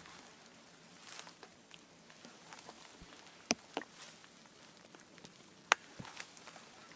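A few sharp, isolated clicks and taps over a faint steady hiss, the loudest about halfway through and again near the end.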